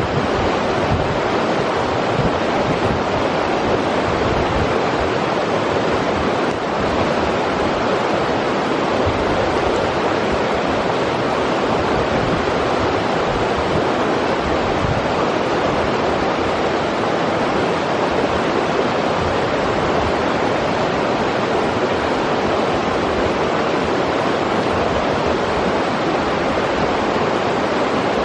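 River water rushing over rocks in a steady, full roar of white noise.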